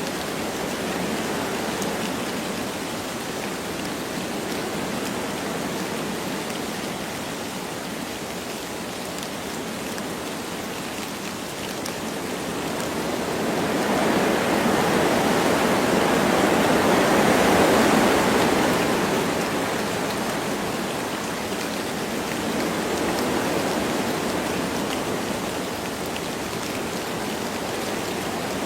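Wind blowing through forest trees with light rain falling, a steady rushing noise that swells into a stronger gust about halfway through and then dies back.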